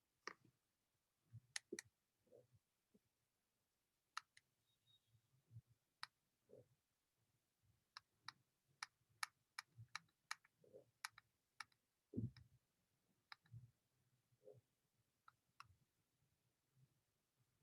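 Faint, irregular clicking with a few soft knocks, with a quicker run of clicks in the middle, as someone works at a computer.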